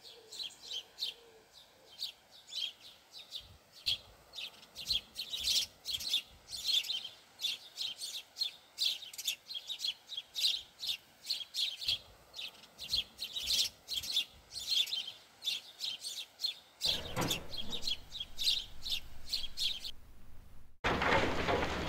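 Small birds chirping continuously, quick high chirps following one another several times a second. Near the end the chirping stops and a louder rushing noise takes over.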